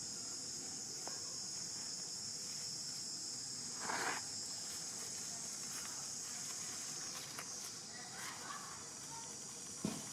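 Steady high-pitched insect chorus, with a short noisy scuff about four seconds in and a brief knock near the end.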